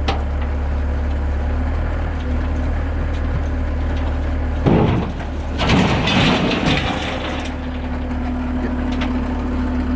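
A heavy engine running steadily under throttle, then about five seconds in a loud thud followed by a couple of seconds of crashing and rattling as the rolled-over dump truck is pulled over and drops back onto its wheels.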